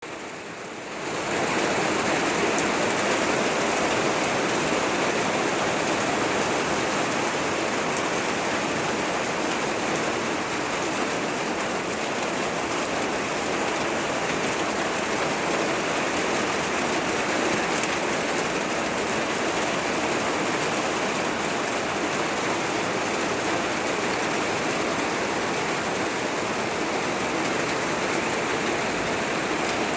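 Rain falling steadily, an even dense hiss of drops that rises over the first second and a half and then holds steady.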